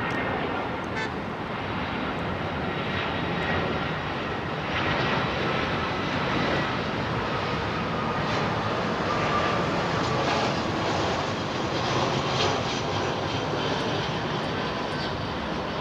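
Jet airliner engines running: a steady rush of noise with a faint whine that slowly drops in pitch.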